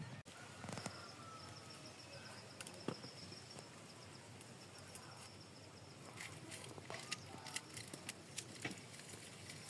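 Quiet rural ambience: a faint high-pitched steady insect trill for several seconds, with scattered light clicks.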